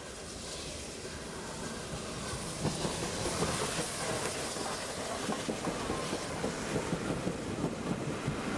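Steam-hauled railtour train behind Peppercorn A1 Pacific 60163 Tornado passing, its wheels clattering over the rail joints. It grows louder, with the clatter becoming dense from about two and a half seconds in.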